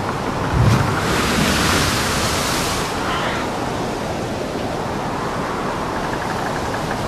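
Steady rushing of wind and sea surf, with a low thud about half a second in and a brighter surge of hiss over the next couple of seconds.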